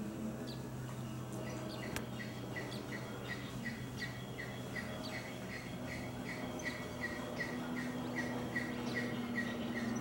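A bird calling a long run of short, evenly spaced notes, about three a second, starting about a second and a half in and getting louder toward the end, over a steady low hum.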